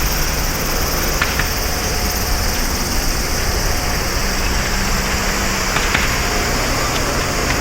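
Boeing 777-200ER's twin jet engines at takeoff power: a loud, steady rushing noise with a few faint crackles.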